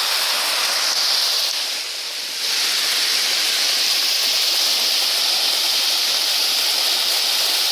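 Waterfall: a steady rush of falling water, dipping briefly about two seconds in.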